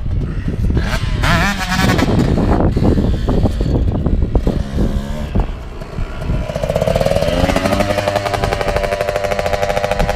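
Two-stroke dirt bike engine running and revving, climbing in pitch about a second and a half in and holding high revs in the second half, with clattering knocks throughout.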